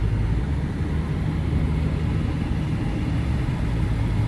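Nissan car engine running steadily, a low even hum.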